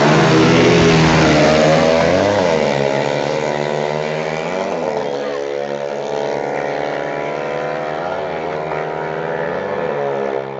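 Race-tuned motorcycle engine running at a fast idle, with about four short throttle blips where the pitch rises and falls back. The first is about two seconds in and the last is near the end.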